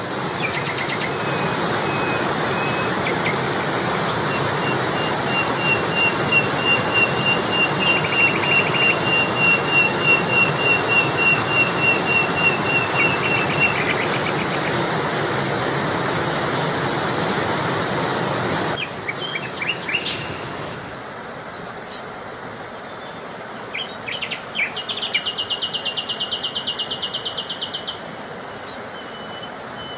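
Birds singing over a steady rushing noise, one of them repeating a rapid series of high notes for several seconds. About two-thirds of the way in the rushing noise cuts off suddenly, leaving quieter scattered chirps and a fast buzzy trill near the end.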